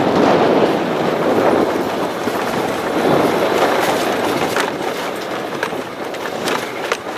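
Vehicle driving along a road: steady road and wind noise with no speech.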